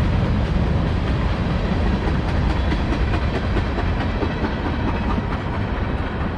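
A CSX freight train's cars rolling past at speed: a steady rumble of wheels on rail with clickety-clack from the wheels crossing rail joints.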